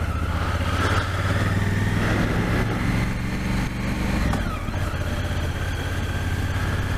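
Motorcycle engine running steadily at low riding speed, with a brief dip in the engine note about four seconds in.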